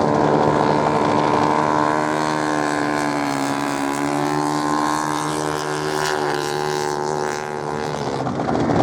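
Racing motorcycle engines running hard on a sand track. The note dips slightly in pitch a few seconds in, holds steady, then turns rougher and louder near the end.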